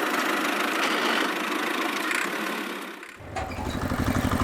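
A steady hissing whir runs for about three seconds and cuts off. Then a small engine starts and runs with rapid, even firing pulses.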